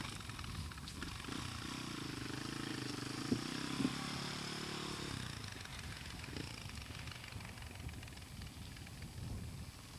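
Husqvarna 610 dirt bike's single-cylinder four-stroke engine running, its pitch rising and falling, loudest from about a second in to about five seconds in, then fading. Two sharp clicks come near the middle.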